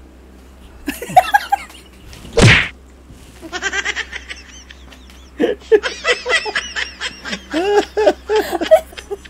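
A short loud rushing burst about two and a half seconds in, as a face goes into a pile of flour, followed by two people laughing in quick repeated bursts.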